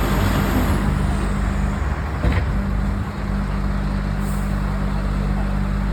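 Heavy diesel vehicle engine running steadily at low revs, with a short knock a little over two seconds in.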